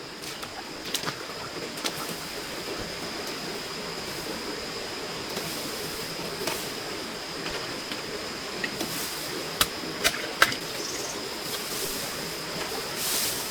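Steady hiss of rain, with a thin high tone held through it and three sharp knocks close together a little after the middle.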